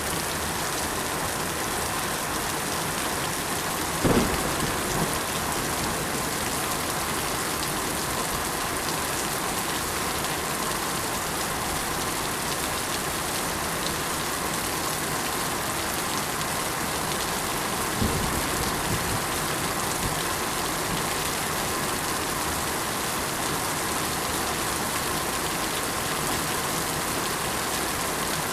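Steady rain falling, an even hiss, with two short low thumps, one about four seconds in and another about eighteen seconds in.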